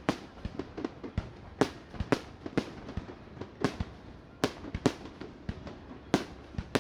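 Fireworks bursting in an uneven barrage: many sharp bangs, several a second, some much louder than others.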